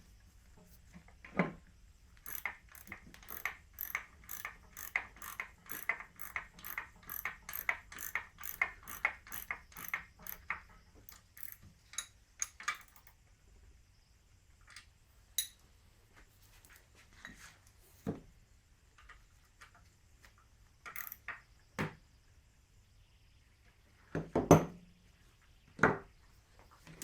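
Ratchet wrench clicking in a steady run of about three to four clicks a second for several seconds, then scattered clicks and knocks, the loudest two near the end.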